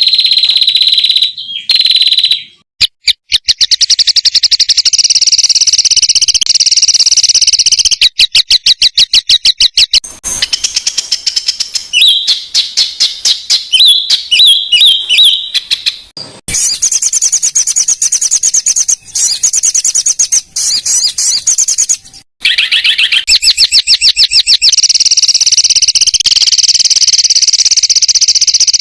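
Songbird song made of long, fast trills of rapidly repeated high notes: the dense rapid-fire phrases used as training song for competition birds. Several stretches are joined back to back, with a few brief cut-offs between them.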